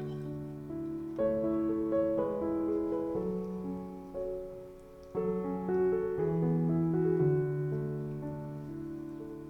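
Background piano music: slow, gentle phrases of held, overlapping notes, fading and then starting a new phrase about five seconds in.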